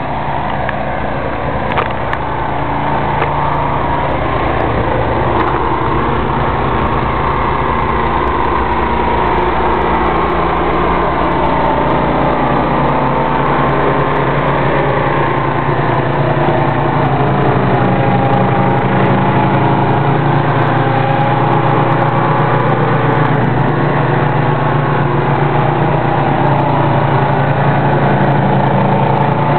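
Ariens snow thrower's engine running steadily, its pitch wavering a little.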